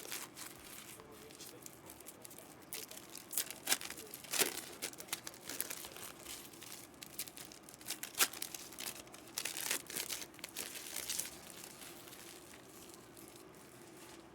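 Plastic-foil packaging crinkling and tearing in irregular sharp crackles as trading card packs are opened, thinning out near the end.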